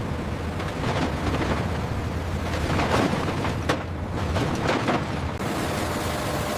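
Heavy machinery rumbling steadily, with a few sharp knocks about three to five seconds in.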